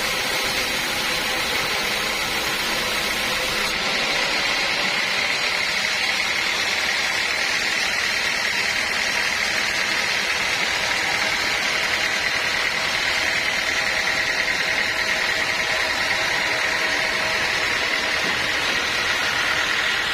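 Sawmill machinery running steadily: a continuous mechanical noise with a steady high whine over it, its tone shifting slightly about four seconds in.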